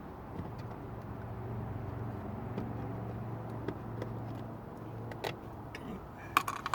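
Scattered light clicks and clacks from dashboard trim parts being handled, ending in a quick cluster of sharp clacks, over a steady low hum.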